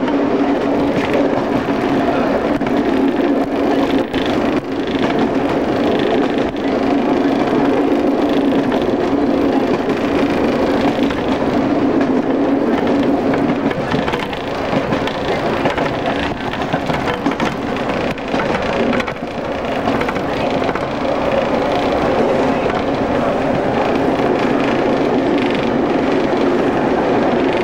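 Class 115 diesel multiple unit running at speed, heard from on board: a steady drone of the diesel engines mixed with wheel and rail noise.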